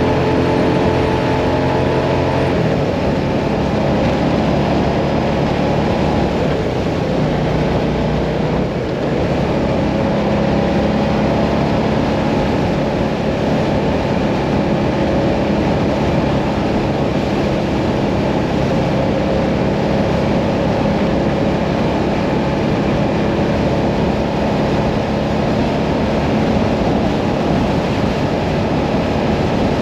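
Mirage 650 motorcycle engine running under way on the open road, with heavy wind and road noise over the microphone. The engine's steady note shifts about two and a half seconds in.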